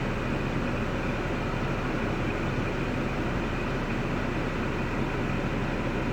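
3.6L LY7 V6 engine of a 2005 Cadillac STS idling with a steady hum.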